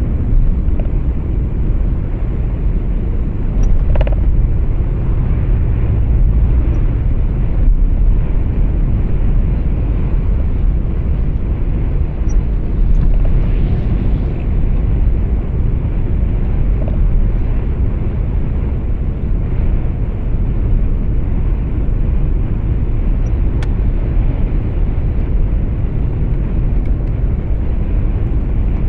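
Steady low rumble of road and engine noise inside a truck cab on the move, with a couple of faint, brief clicks.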